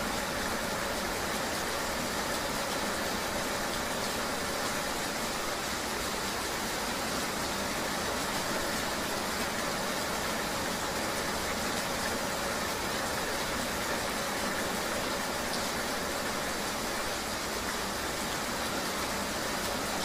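Steady ambience of riding a vehicle in the rain: an even hiss of rain and road noise with a faint engine hum underneath.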